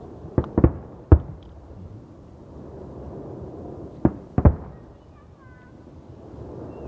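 Fireworks going off: a quick run of sharp bangs about a second in, then another pair of bangs about four seconds in, over a steady background of more distant fireworks.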